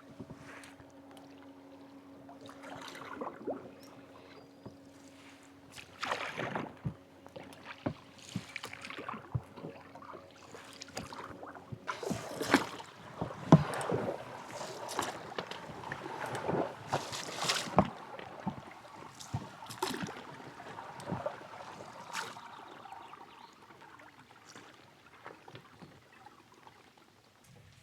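Water splashing and sloshing with irregular knocks, loudest in the middle. A faint steady hum runs under the first half and then stops.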